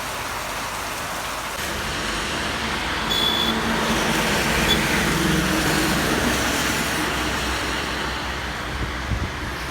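Heavy rain falling steadily while a motor vehicle drives past on the wet road: its engine and tyre hiss swell from about two seconds in, are loudest in the middle, and fade near the end.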